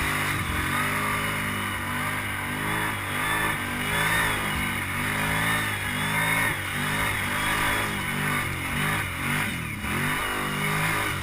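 ATV engine revving up and down over and over as the throttle is worked on and off, its pitch rising and falling about once a second.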